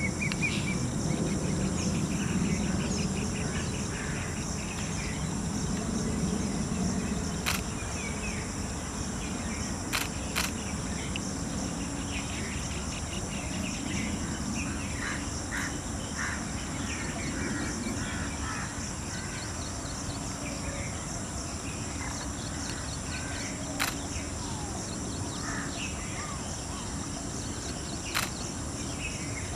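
Rural ambience: a steady high insect drone with many small birds chirping throughout, a low rumbling haze that eases after the first several seconds, and a few sharp clicks.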